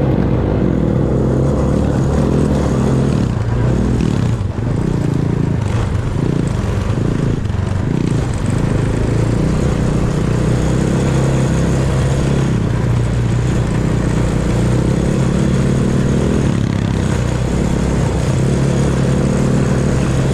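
Small off-road vehicle engine running under way, with the throttle rising and falling a few times in the first half, then holding a steady pitch.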